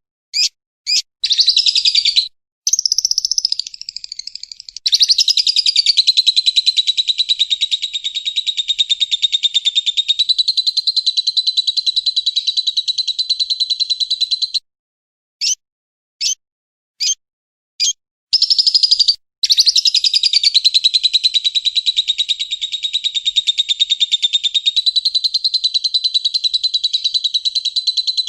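Lovebird song played from a recording: a few short high chirps, then a long unbroken rapid chattering trill lasting over ten seconds, a brief pause with a few more chirps, and another long trill. The long continuous trill is the lovebird's 'ngekek' song used as a training track for songbirds.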